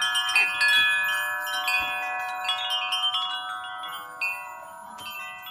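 Wind chimes ringing, many overlapping tones struck again and again and hanging on, slowly fading toward the end.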